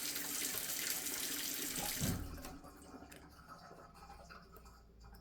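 Tap water running in a sink, rinsing a plastic washing-machine detergent drawer part under the stream. The water hiss cuts off suddenly about two seconds in, leaving faint small knocks of the part being handled.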